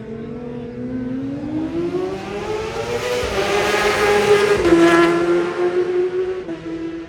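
Racing motorcycle at full throttle approaching, its engine note climbing, passing about five seconds in with a drop in pitch, then fading away.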